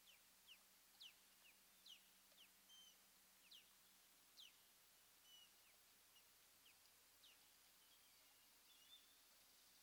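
Faint, sharp chirps, each a quick falling whistle, repeated about twice a second at uneven spacing with a few short level notes among them: a bird calling.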